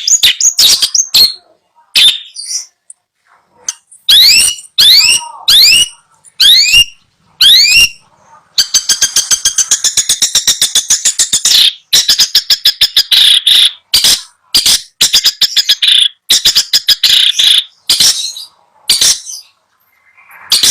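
Long-tailed shrike (cendet) singing loudly in short bursts. A few rising whistled sweeps are followed by a fast rattling run of notes lasting about three seconds, then choppy chattering phrases.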